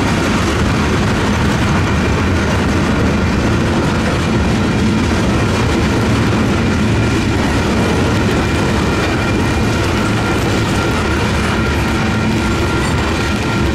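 Freight cars of a manifest train, tank cars and boxcars, rolling through a grade crossing: a steady heavy rumble with wheel clatter on the rails. The crossing's WCH electronic bell rings throughout.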